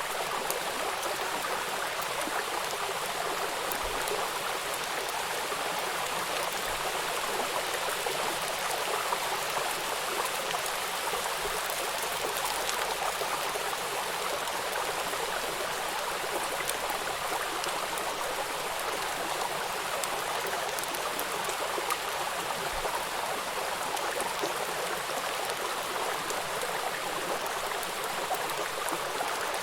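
River water rushing and splashing over rocks at a small waterfall, a steady, even noise.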